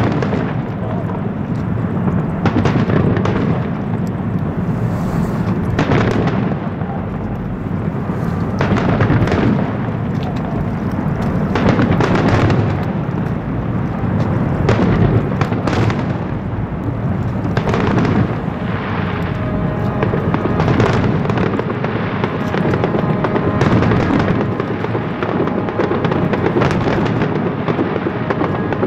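Aerial fireworks going off in quick succession, booming bursts overlapping with crackling, a continuous barrage with no break.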